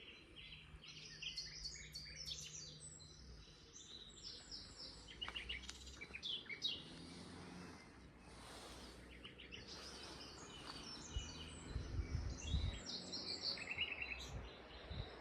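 Common nightingale singing: quick phrases of rapidly repeated notes, one after another. A few low thumps or rumbles come in near the end.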